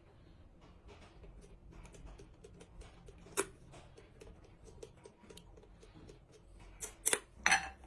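Light, irregular clicks and taps of metal tools and engine parts being handled, with a sharper click about three and a half seconds in and a few louder knocks near the end.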